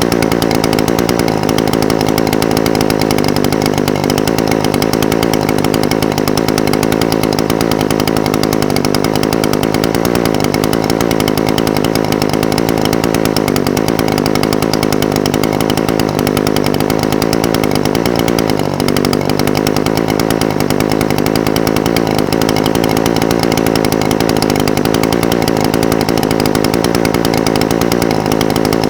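Echo SRM-420TES brush cutter's two-stroke engine idling steadily, its pitch wavering slightly with a brief wobble past the middle.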